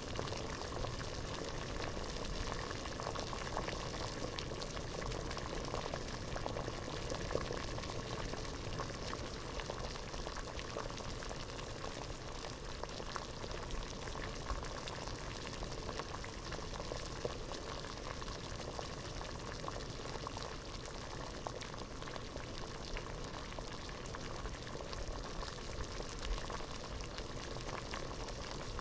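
Water boiling hard in a pot: a dense, steady bubbling made of many small pops.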